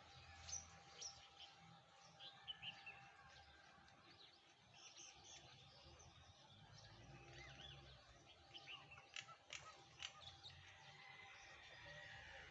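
Faint bird chirping: many short, high chirps scattered throughout, thickest toward the end, over a faint steady hum.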